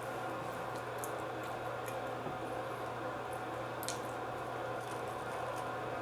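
A person chewing a mouthful of deep dish pizza close to the microphone, with scattered small mouth clicks over a steady low hum.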